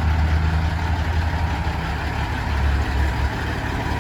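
Heavy diesel truck engine running with a deep, low hum that drops away a little over three seconds in, over steady traffic noise.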